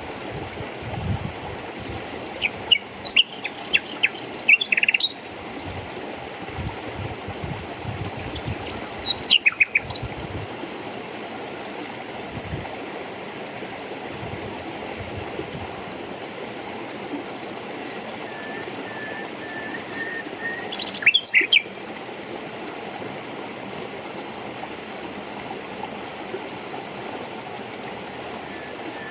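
Birds chirping in short scattered bursts over the steady rush of flowing water, with a brief run of evenly spaced single notes partway through.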